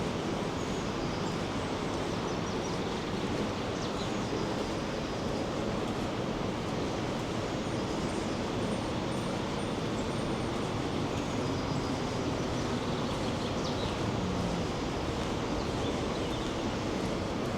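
Steady rushing roar of the Rhine Falls' water.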